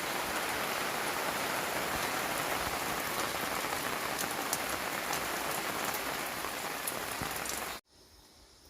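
Steady rain falling, a dense hiss with scattered drop ticks, cutting off abruptly near the end.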